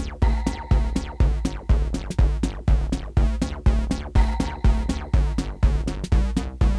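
Live techno played on hardware drum machines and analogue synthesizers: a steady four-on-the-floor kick drum at about two beats a second, with hi-hats and a repeating synth sequence over it.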